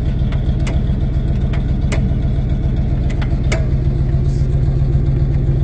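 Tow truck's engine idling steadily with a low rumble, with a few light clicks over it.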